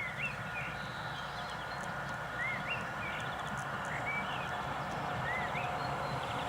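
Small birds chirping: short rising chirps in clusters of two or three, every second or two, over a steady low background rumble.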